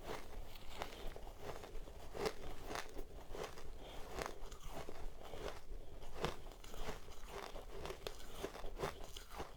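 Close-up crunching of powdery ice being bitten and chewed, in many short, irregular crunches.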